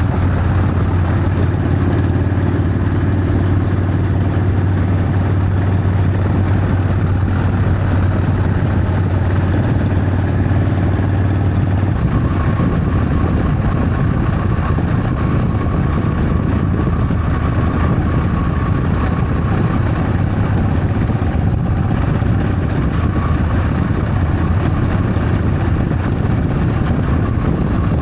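Harley-Davidson Sportster's air-cooled V-twin engine running steadily while riding, with wind noise. Its note changes about halfway through.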